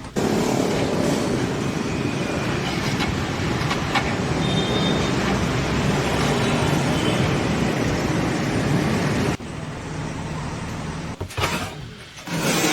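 A steady, loud, low rumbling noise like a running vehicle or heavy machine, which cuts off suddenly about nine seconds in, giving way to quieter noise and a few sharp bursts near the end.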